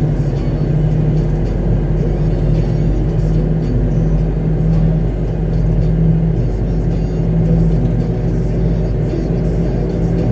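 Concrete mixer truck's diesel engine running with a steady low drone, heard from inside the cab, with music playing over it.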